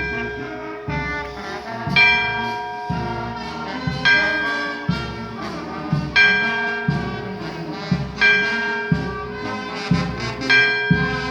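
Brass band playing a slow tune, trombones and trumpets in front, with a strong accent on the beat about every two seconds.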